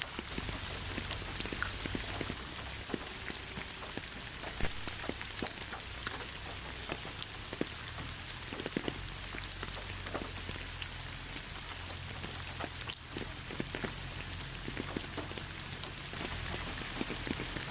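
Steady rain falling, with many separate drops striking a surface as sharp ticks over an even hiss, and a low steady rumble underneath.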